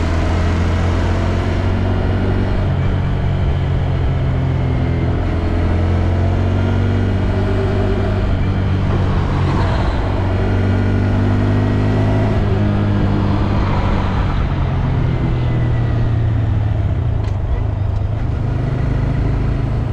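2022 Honda Grom's small single-cylinder engine running while the bike is ridden, its pitch rising and falling several times with throttle and gear changes. This is the bike the owner says still makes an unexplained noise after its drive chain was replaced with an O-ring chain.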